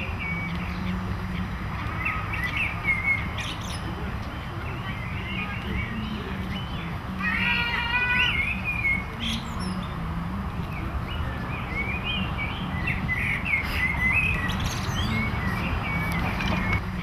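Outdoor ambience of birds chirping and calling repeatedly, with one louder, fuller call about seven and a half seconds in, over a steady low rumble.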